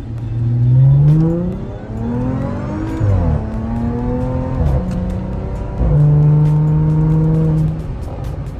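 Supercharged 3.0-litre V6 of a tuned Audi A6 C7 accelerating hard, its pitch climbing and then dropping sharply at each of several quick upshifts before holding steady and easing off near the end.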